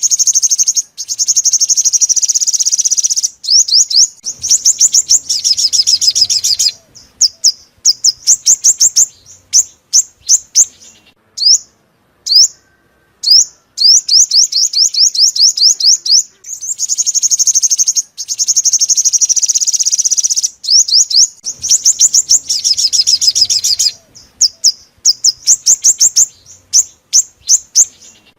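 Sunbird song: long runs of rapid, high, thin trilled notes, broken by short pauses, with separate sharp single chirps between the runs.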